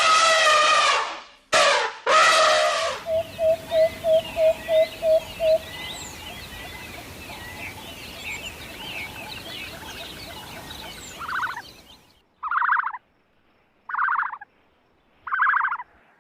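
A run of bird and animal calls: two loud, long pitched cries, then a quick series of about eight short identical calls, a stretch of many small bird chirps, and near the end four short buzzy calls about a second apart.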